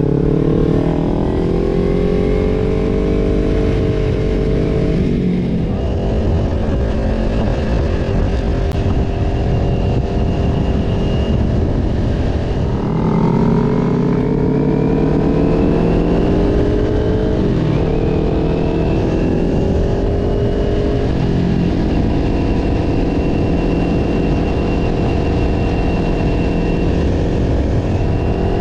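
Kawasaki Ninja parallel-twin motorcycle engine under way, its pitch climbing as it pulls through the gears and falling back at the shifts, then holding steady at cruise in the second half. Heavy wind noise on the microphone.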